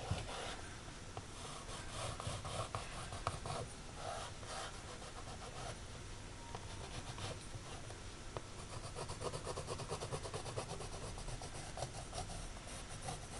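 Charcoal pencil scratching and rubbing on canvas in quick, repeated strokes as a drawn outline is traced.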